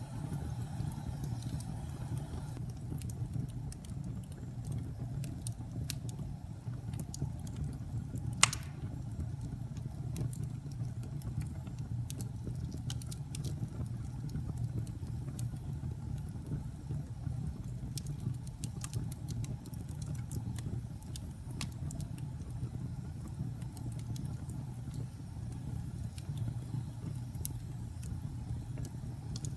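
Wood fire burning in a fireplace: a steady low rumble of the flames with scattered crackles, and one loud pop about eight seconds in.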